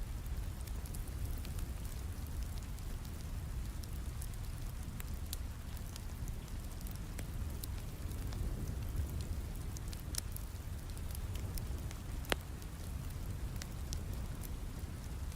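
Steady rain with a low rumble, over a wood fire crackling in scattered sharp pops, the loudest pop about twelve seconds in.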